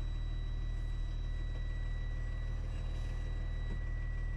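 Steady low drone of a truck's engine and road noise heard inside the cab while driving, with a faint constant high-pitched whine over it.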